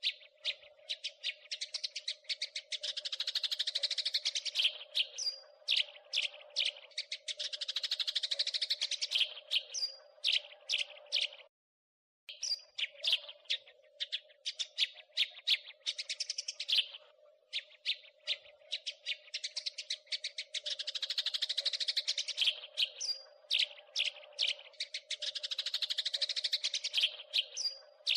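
House sparrow chirping and chattering: runs of rapid chirps that build into dense, fast chatter, then thin out to single chirps, with a brief break just before the middle.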